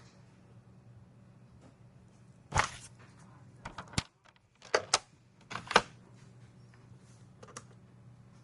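Scattered separate clicks and knocks of office desk work, about eight over several seconds with the loudest a short knock a few seconds in, over a steady low hum of office room tone.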